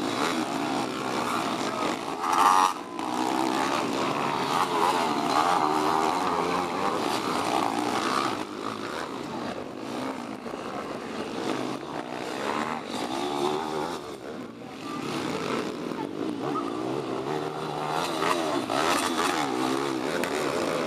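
Several pit bike engines revving at once, their pitches rising and falling over each other as the bikes race, with one loud burst about two and a half seconds in.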